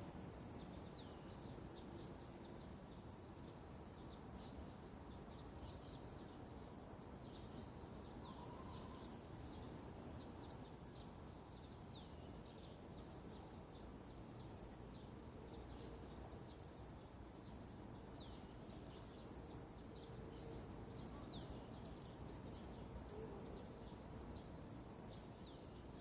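Faint birdsong: many short, high chirps and quick whistled notes repeating every second or so, over a steady low background hiss and a thin high steady tone.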